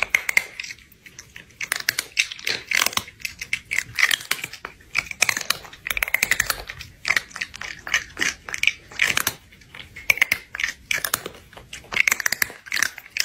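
Noisy open-mouthed chewing and crunching, as of food being eaten: a steady, irregular run of short crunches, several a second.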